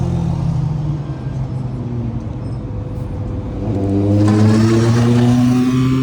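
A motor vehicle running, then accelerating from about four seconds in, its pitch rising steadily, with rushing air noise.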